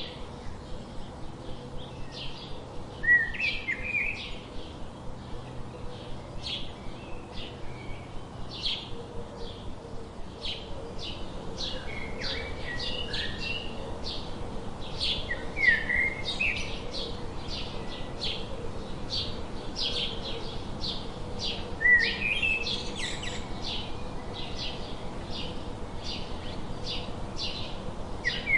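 Songbirds chirping: a rapid, even series of short high chips, with a louder sweeping call breaking in three times.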